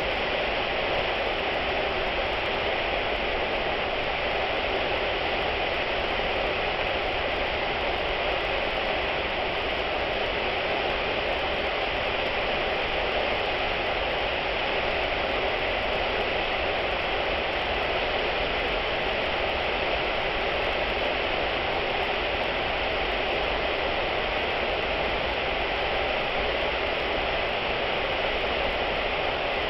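Manai Falls waterfall: a steady, unbroken rush of falling water.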